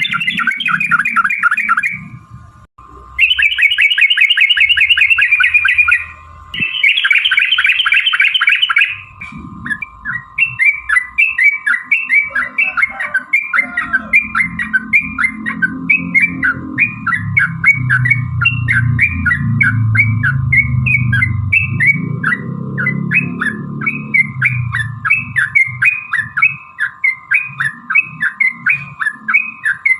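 Yellow-vented bulbul (trucukan) singing: fast rolling chattering bursts for the first several seconds with a short break, then a long even series of short repeated notes, about two a second.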